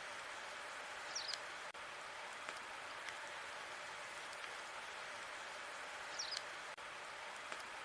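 Logs burning in a fireplace: a steady hiss with scattered crackles, and two brief sharp high pops, about a second in and about six seconds in.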